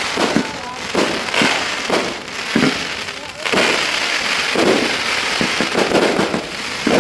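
Fireworks display going off: a run of aerial shell bursts, one after another, with a long stretch of dense crackling from about halfway through.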